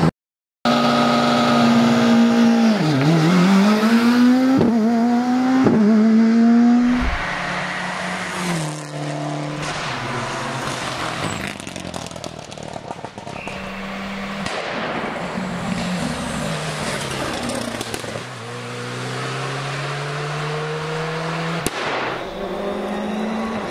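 Rally car engines revving hard and changing gear, the pitch climbing and dipping again and again; after about seven seconds the cars sound farther off and run at lower revs.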